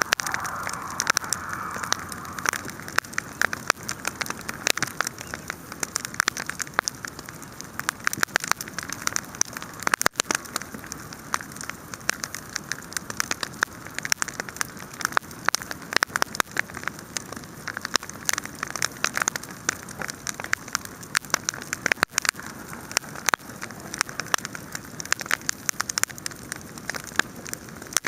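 Wood fire crackling: a dense, steady stream of small pops and snaps over a soft hiss.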